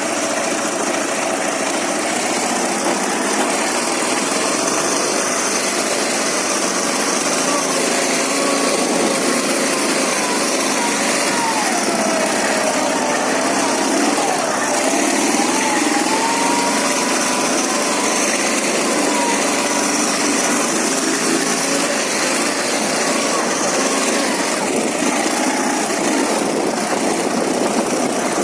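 Ural motorcycle's flat-twin engine running steadily, its pitch rising and falling in the middle as the revs change.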